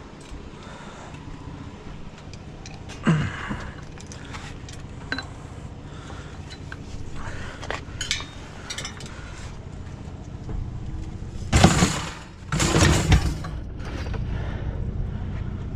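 Scattered clinks and knocks of discarded household items being handled and shifted, with two louder, longer clattering scrapes near the end.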